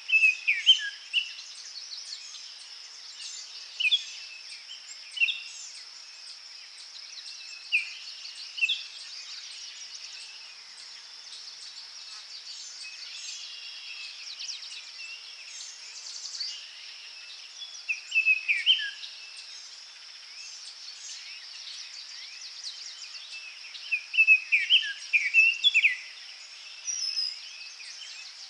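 Forest birds singing in short, sharp phrases that come every few seconds, a burst of several near the end, over a steady high insect drone.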